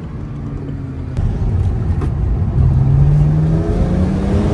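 BMW 335is's N54 twin-turbocharged inline-six accelerating. It gets louder about a second in, then its pitch climbs steadily as it revs up.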